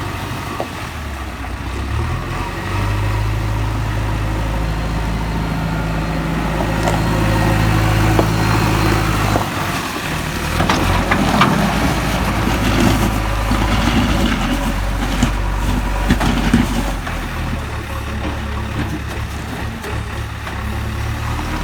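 JCB 3DX backhoe loader's diesel engine running under work, its engine speed stepping up and down several times, with irregular rattling and scraping of stone and sand being worked in the middle stretch.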